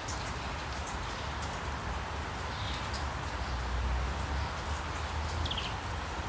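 Steady rushing noise with a low rumble underneath, played as white noise for sleep. Faint short bird chirps are scattered through it, with a quick run of three near the end.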